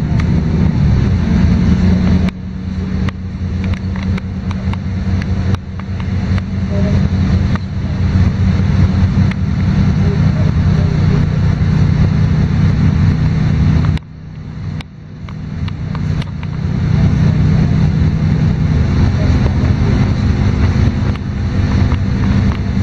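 Diesel engine of a LiAZ-5292 low-floor city bus, heard from inside the bus as it drives, with a steady low drone and light interior rattles. The engine note eases off sharply about two-thirds of the way in, then builds back up as the bus pulls away again.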